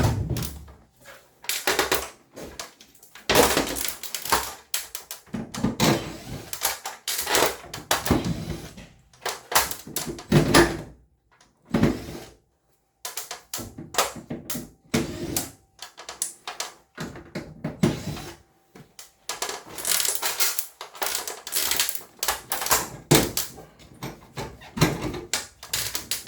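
Irregular clicking and clattering of tools, screws and panel parts being handled while a ceiling-cassette air conditioner is taken apart, with short pauses between bursts.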